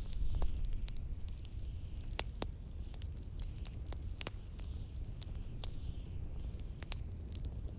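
Wood fire crackling, with scattered sharp pops at irregular moments, over a steady low rumble of blizzard wind and a faint higher hiss that swells and fades.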